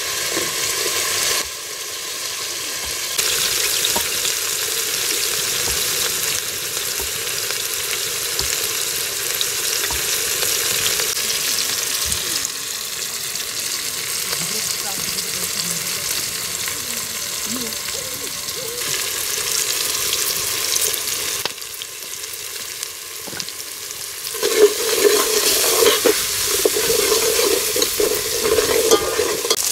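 Oil and chopped tomato sizzling as they fry in a metal pot over a wood fire, a steady hiss. In the last few seconds a ladle stirs the pot and the sound grows louder.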